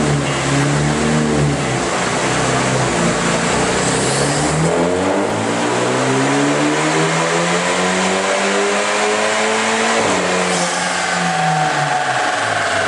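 Turbocharged BMW 2 Series coupe engine running on a chassis dyno: a few revs, then a pull with the engine note rising steadily for about five seconds. About ten seconds in the throttle closes with a brief hiss and the revs fall away.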